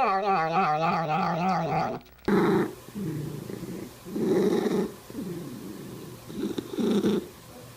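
A domestic cat's drawn-out yowl, its pitch warbling up and down, that stops about two seconds in. After a short gap come three short, low, rough growls.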